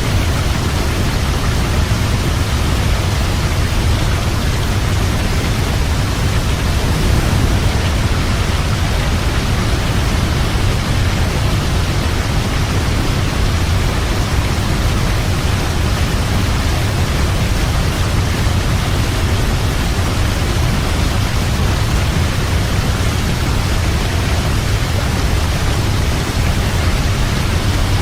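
Waterfall: falling water rushing steadily, a dense, even hiss with a strong low rumble.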